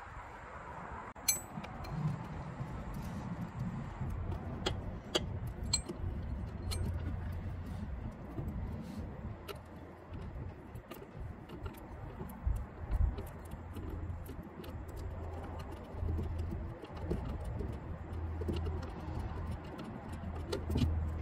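Scattered light metallic clicks and clinks of hand tools on metal during engine work, over a low hum that comes and goes.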